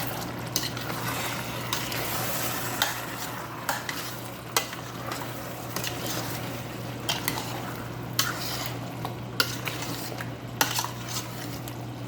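A spoon stirring chicken and vegetables in a pot on the stove, with irregular sharp knocks and scrapes against the pan over a steady sizzle.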